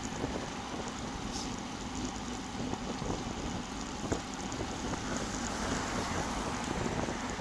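Wind rushing over and buffeting a bike-mounted action camera's microphone while riding at speed, with road noise underneath and a few sharp clicks or rattles, one about four seconds in.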